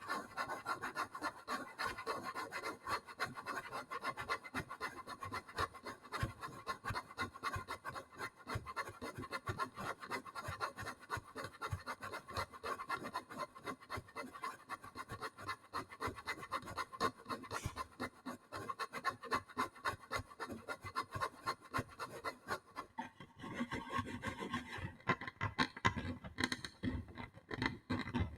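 ASMR trigger sounds: fast, continuous scratching and rubbing on a surface, a quick run of short strokes. The texture changes about 23 seconds in.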